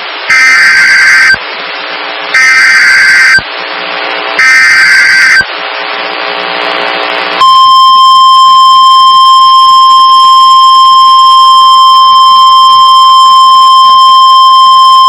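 NOAA Weather Radio emergency alert over radio static: three one-second bursts of the SAME header's warbling data tones, then about seven seconds in the steady 1050 Hz warning alarm tone begins. Together they signal an incoming warning broadcast.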